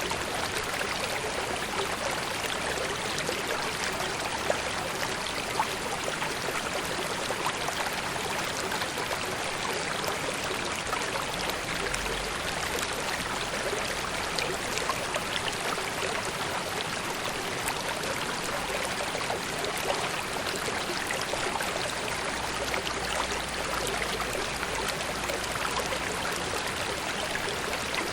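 Gently flowing river water, a steady rushing and trickling with small splashes scattered through it.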